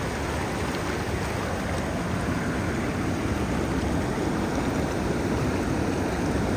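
Steady rush of fast, foaming river water near a waterfall.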